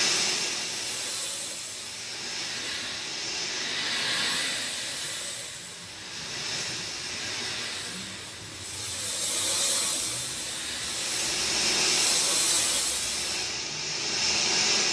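Rain falling: a steady hiss that swells and eases every few seconds.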